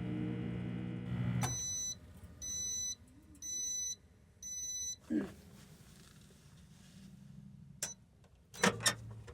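An electronic beeper sounds four times, about once a second. Each beep is a clear, high tone about half a second long. A clunk and a few sharp clicks of handling follow.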